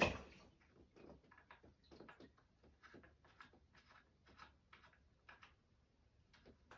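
Faint, irregular light clicks and taps, roughly two or three a second.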